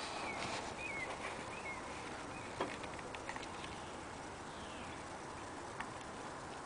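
Small birds chirping a few times in the first two seconds over a faint steady hiss, with a few light clicks and ticks.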